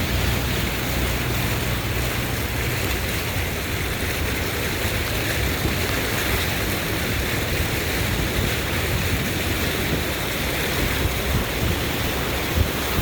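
Fast-moving flash-flood water rushing steadily, with some low wind rumble on the microphone.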